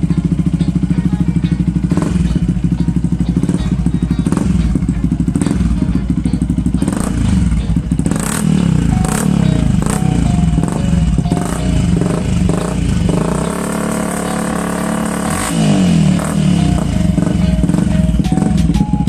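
Yamaha WR125R's single-cylinder four-stroke engine running through an aftermarket Akrapovic-style exhaust. It idles steadily at first, then is revved up and down repeatedly. Past the middle it is held at higher revs for a couple of seconds, then drops back to idle.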